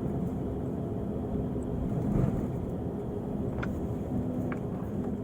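Diesel engine of a Volvo-chassis Irizar i6s coach running steadily, with a brief swell about two seconds in and two light clicks near the end.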